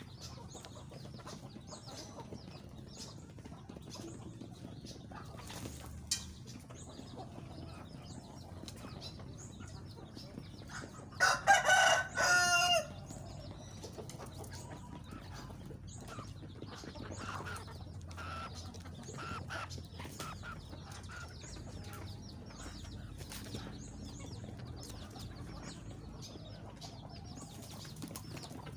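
Chickens clucking, with a rooster crowing once, loudly, about eleven seconds in.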